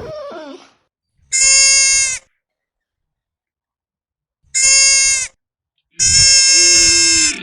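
Goat bleating three times, in loud separate calls, the last one the longest.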